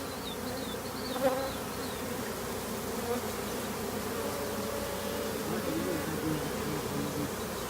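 Swarm of disturbed honeybees buzzing steadily, many bees at once, their colony being cut out of its comb: an agitated, defensive hive.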